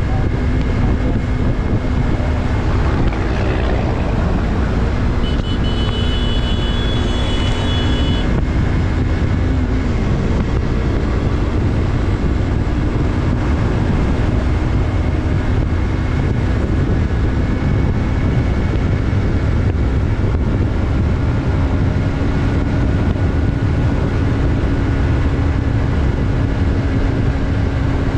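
Yamaha MT-03's 321 cc parallel-twin engine running at a steady pitch while riding, with wind noise on the microphone.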